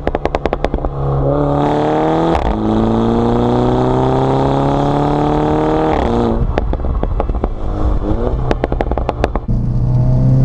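Mini Cooper S's 2-litre turbocharged four-cylinder through a Remus cat-back sport exhaust. It accelerates hard, the revs climbing through a gear change and then rising steadily for several seconds in the next gear. Each time the throttle closes, the exhaust gives quick strings of pops and crackles on the overrun, at the start and twice more in the second half.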